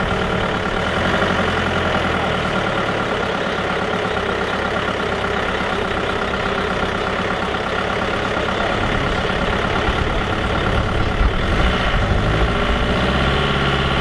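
Classic car engine idling steadily, getting a little louder about eleven seconds in.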